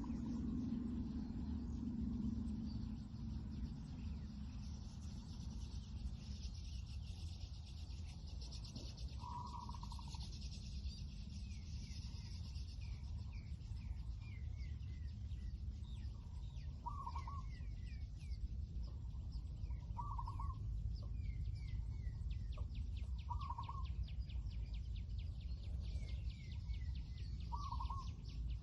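Outdoor birdsong: a low dove coo fading out in the first few seconds, then a short call repeated about every three seconds, with small birds chirping and a fine insect buzz behind, over a low outdoor rumble.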